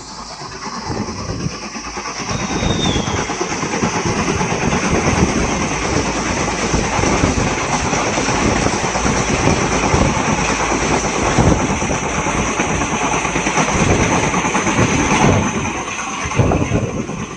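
Express passenger train passing close at high speed, wheels clattering continuously over the rails with a steady hiss. It builds over the first couple of seconds, holds, and eases off near the end.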